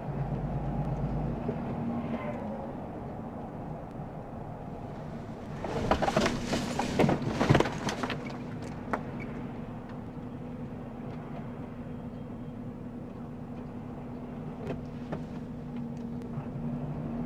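Car driving with a steady engine and road drone; about six seconds in, a burst of loud knocks and crunches lasting about two seconds, typical of a vehicle collision.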